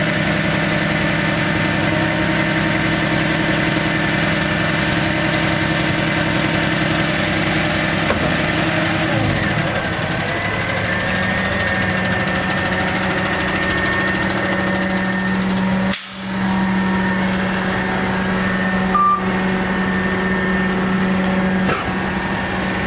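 Bucket truck's engine running steadily, with a thin whine over it. The pitch shifts a little about ten seconds in, there is a brief dip about two-thirds through, and a short beep comes near the end.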